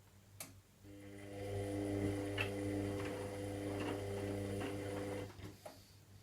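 Washing machine drum motor running for about four seconds, a steady hum with a low whine, as it turns the drum during the wash phase of a synthetics warm wash, then stopping. A few light clicks come before and during it.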